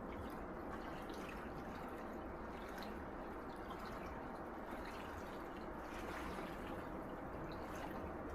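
Small sea waves washing on a shore: a steady, quiet hiss of water with faint trickling and dripping clicks scattered through it.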